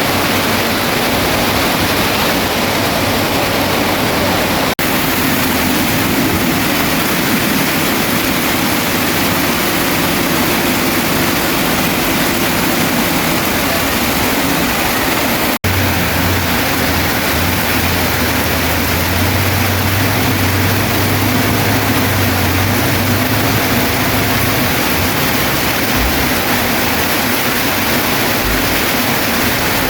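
Bulldozer diesel engine running under a steady hiss of heavy rain, its low hum swelling for several seconds in the middle. The sound breaks off for an instant twice.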